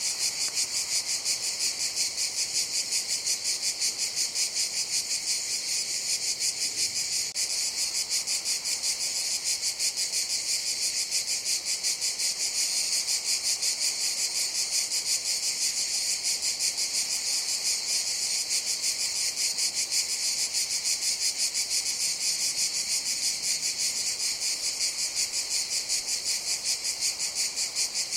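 Cicadas singing: a steady, high-pitched buzzing chorus with a fast, even pulse that carries on without a break.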